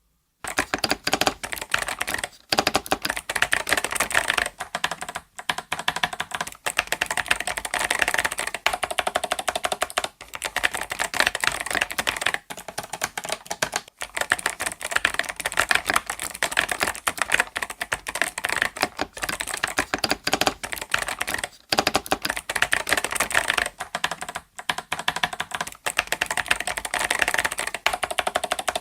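Fast, continuous typing on an 8BitDo Retro Mechanical Keyboard (M Edition): a dense run of key clicks broken by short pauses every few seconds.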